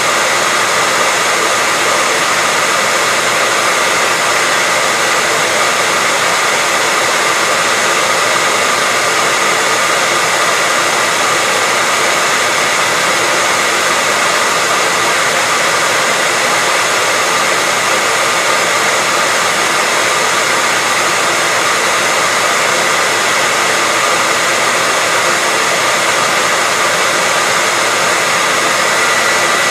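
Hair dryer running steadily, a continuous rushing blow with a steady whine on top and no change in pitch or level.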